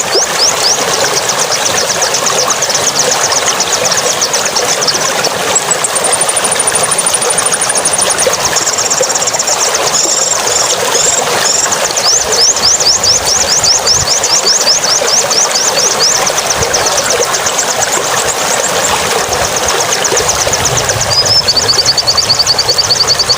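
A songbird singing long runs of quick, high, repeated chirps, about five a second, broken by a couple of held high whistles, over a steady hiss.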